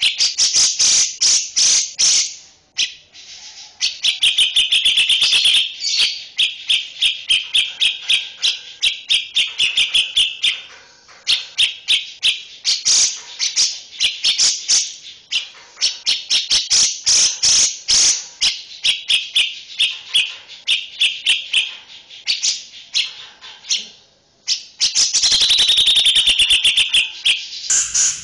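Songbird master recording: fast, continuous runs of sharp repeated chattering notes and trills, with short pauses between phrases.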